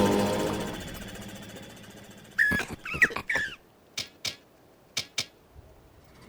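A cartoon backpack propeller's buzzing motor fades away, then a few quick bird-like chirps from the sparrows, followed by four short, sharp clicks.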